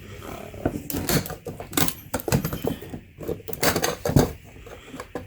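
Irregular clinks and knocks of small hard objects being handled and set down, like metal filter parts clattering on a workbench.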